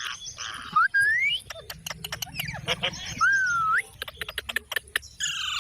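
Pet parrot calling: whistled notes that glide up and down, harsh squawks, and runs of sharp clicks, with a buzzy call near the end.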